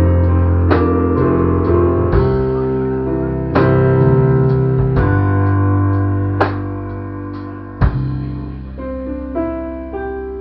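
A band plays the instrumental ending of a song: guitar and keyboard chords are struck about every second and a half and left to ring, and the sound dies down toward the end.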